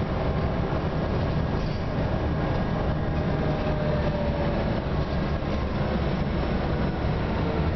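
Scania OmniCity bus running: steady engine and road rumble, with a faint whine that drifts slightly lower in pitch a few seconds in.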